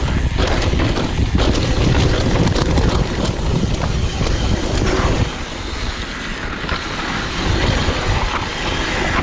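Wind rushing over the microphone of a mountain bike descending a dirt trail, with tyre noise and the bike's rattles and knocks over rough ground. It eases for a moment about five seconds in.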